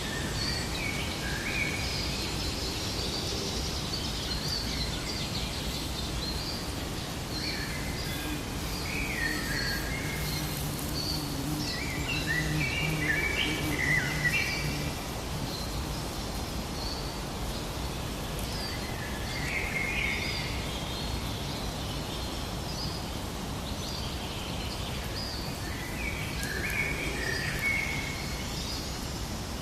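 Forest ambience with several birds chirping and trilling over a steady background hiss, busiest in the middle and again near the end.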